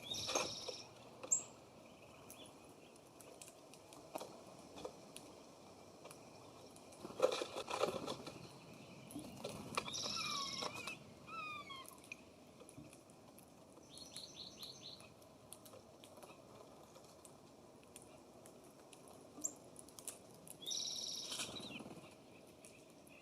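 Songbirds calling at a bird feeder: scattered bursts of chirps, a few down-slurred notes, and a quick run of repeated notes about halfway through, with light taps and clicks between them.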